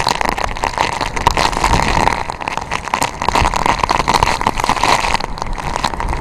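Strong typhoon wind buffeting the microphone in gusts: a loud, rough rushing with constant crackle and rising and falling loudness.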